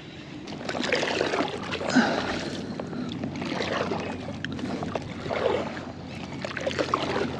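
Kayak paddle strokes dipping and splashing in the water, a stroke every second or so.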